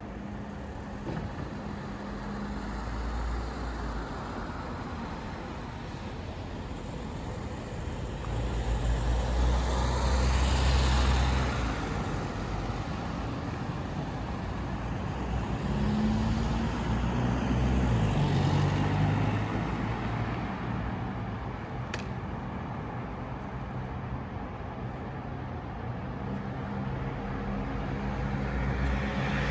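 Road traffic: steady street noise with a low rumble, and vehicles passing twice, each swelling and fading over a few seconds. There is one sharp click about two-thirds of the way through.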